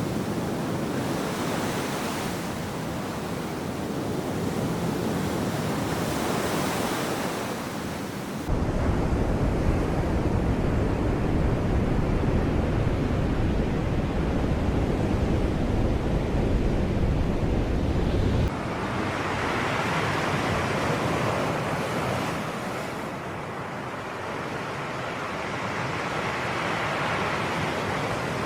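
Sea waves washing onto the shore, a steady surging hiss that swells and eases. About eight seconds in, a loud low rumble cuts in abruptly and the higher hiss thins out; about ten seconds later the rumble stops just as abruptly.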